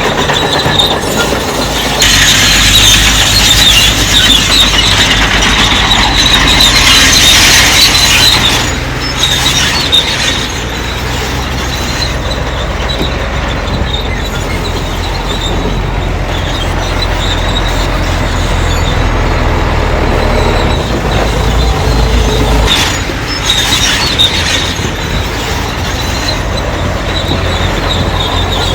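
Crawler bulldozer working, diesel engine running under a high squealing and grinding of its steel tracks. The squeal is loudest for several seconds near the start and swells again briefly later on.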